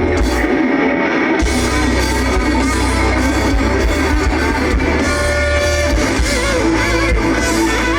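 A rock band playing live, an instrumental passage led by guitar over bass and drums. The low end drops out briefly near the start and comes back in about a second and a half in.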